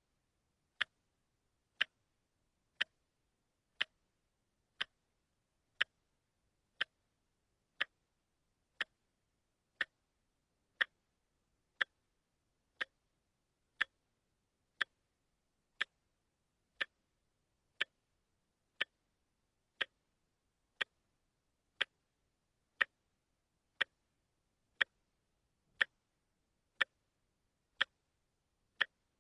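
Watch ticking steadily, one sharp tick a second, with near silence between ticks.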